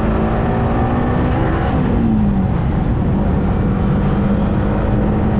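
Yamaha R15M's 155 cc single-cylinder engine running while riding, with steady wind and road noise. Its pitch drops about two seconds in, then holds steady.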